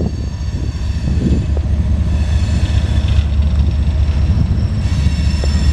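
Loaded coal hopper cars of a CSX freight train rolling past, a steady heavy rumble of wheels on rail.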